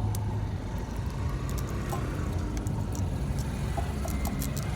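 Steady low rumble, like passing road traffic, with scattered light, sharp clicks that come thicker near the end.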